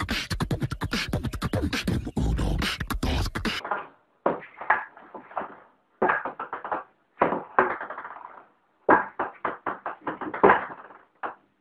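Beatboxing: a fast, dense run of rhythmic vocal beats that cuts off about three and a half seconds in. After it comes a string of short, irregular taps and knocks with silent gaps between them.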